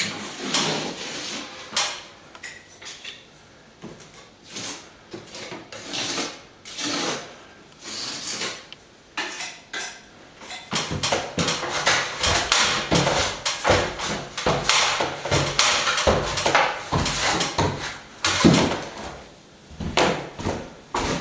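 Plastering hand tools scraping and knocking against a plaster wall: irregular scrapes and taps, sparse at first and becoming busy and continuous from about halfway.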